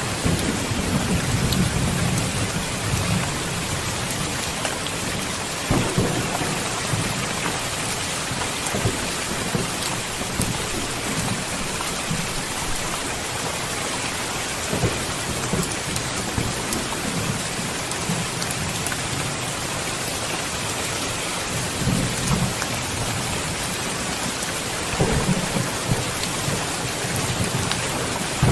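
Thunderstorm: steady rain falling, with low rolls of thunder swelling and fading several times.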